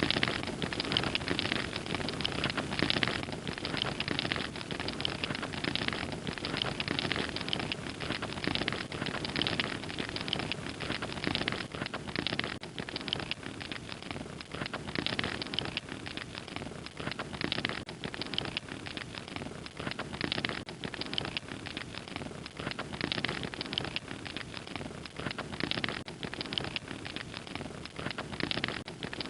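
Wood fire crackling steadily, with many small pops and snaps over a continuous hiss.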